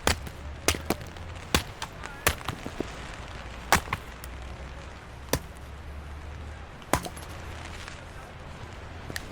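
About ten sharp knocks or cracks at uneven intervals, the loudest a little under four seconds in, over a steady low rumble.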